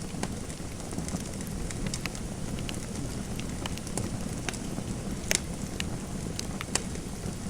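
Fireplace crackling: a steady low rumble of burning with scattered sharp pops, two of them louder, about five seconds in and again near seven seconds.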